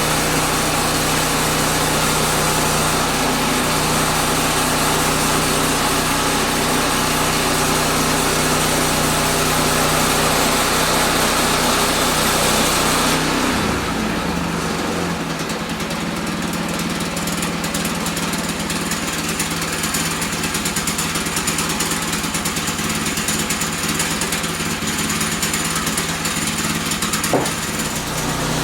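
Small gasoline engine of a portable band sawmill running steadily. About halfway through, its steady hum drops back and the sound turns rougher and noisier. A single sharp knock comes near the end.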